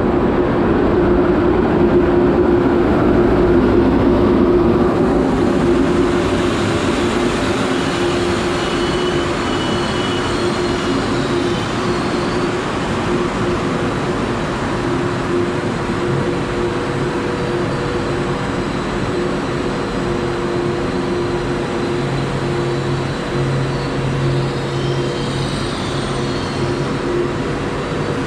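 Loco-hauled Trenitalia Intercity train running along the line, a steady rumble of wheels on rails with a constant hum.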